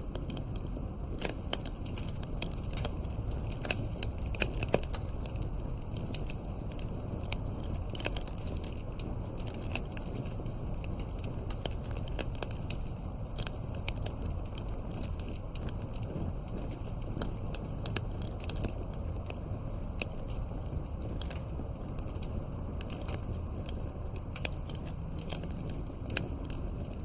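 Campfire burning: wood crackling with frequent sharp, irregular pops over a steady low rumble.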